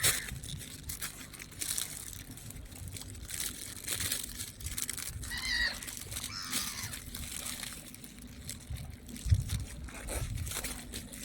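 Sea water washing and sloshing amid rustling, crackly noise, with one short wavering bird call a little past halfway.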